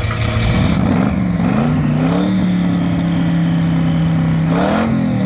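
Car engine revving up from idle and holding a steady higher speed for a couple of seconds, then blipped sharply once near the end and let fall back.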